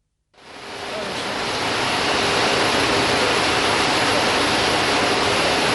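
Concorde cockpit background noise: a steady, even rushing hiss with a faint underlying hum, fading in over the first second or two.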